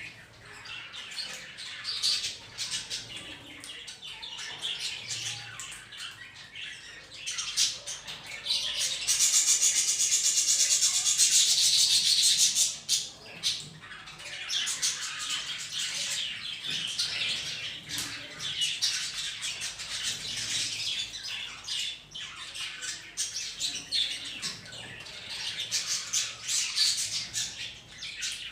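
Caged budgies and a parrot chattering and chirping without a break, with many short clicks among the calls. About nine seconds in, one loud, harsh, buzzy call holds for about three seconds, then the chatter carries on.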